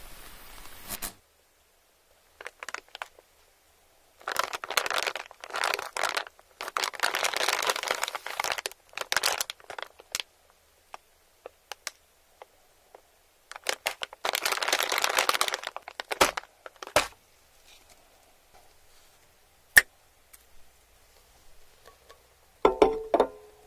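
Plastic wrapping crinkling and tearing in three bursts of a second or two, with scattered sharp clicks in between.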